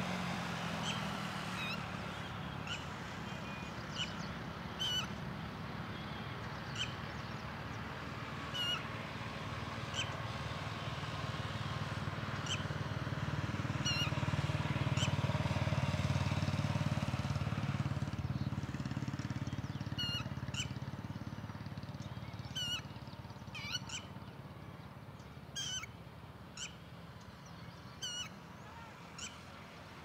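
Short, sharp bird calls repeated every second or two, with a pause in the middle. A low rumble runs underneath, swelling in the middle and fading toward the end.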